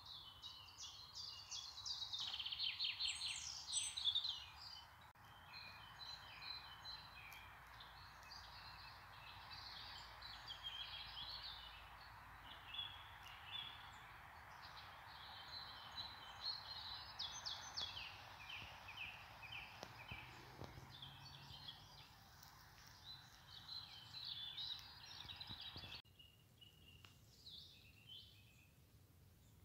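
Faint songbird chorus: many short chirps and quick trills from several birds over a steady hiss. The hiss cuts off abruptly near the end, leaving sparser chirps.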